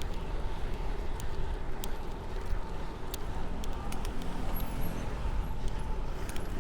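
Wind rumbling on the microphone of a moving fixed-gear bicycle, with road traffic noise and scattered faint clicks.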